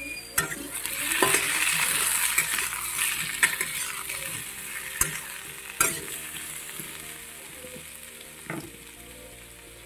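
Kohlrabi and potato pieces sizzling in oil in a steel kadai while a metal spatula stirs them, with several sharp scrapes and knocks of the spatula against the pan. The sizzle is loudest in the first few seconds and dies down toward the end.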